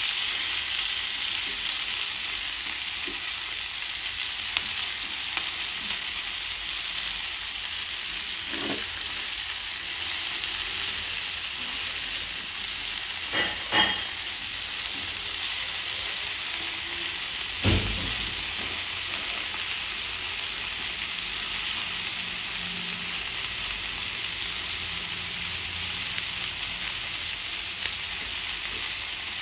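Broccoli and red onion sizzling steadily in a hot frying pan as they are sautéed and stirred. A few short knocks, mostly around the middle, as the spatula strikes the pan.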